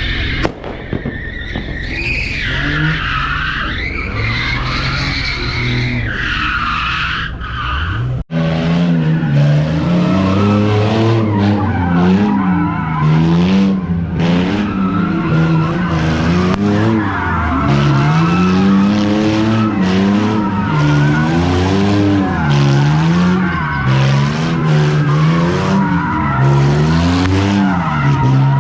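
Car tyres squealing and skidding under a hard-driven car. After a short break about eight seconds in, the engine revs up and down over and over, about once a second, with the tyre squeal going on beneath it.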